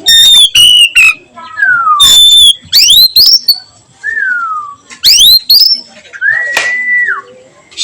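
Oriental magpie-robin singing loud whistled phrases: some notes slide down, others sweep sharply up, separated by short pauses.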